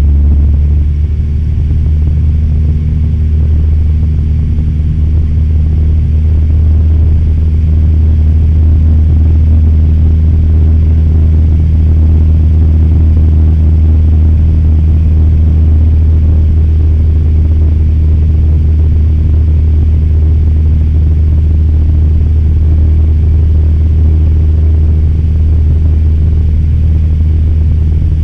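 Cessna 172M Skyhawk's four-cylinder Lycoming engine and propeller droning steadily in flight, heard from inside the cockpit.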